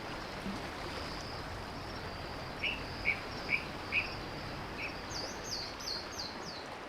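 Outdoor ambience: a steady background hiss with a bird chirping, about five short chirps spaced roughly half a second apart in the middle, then a quick run of higher, downward-sweeping chirps near the end.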